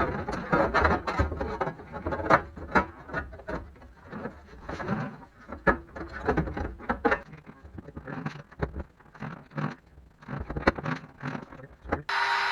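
Thin sheet steel being handled and test-fitted: irregular clanks, taps and scrapes of the metal panel against the body. Near the end a power cutting tool suddenly starts up with a steady high whine, to trim the panel.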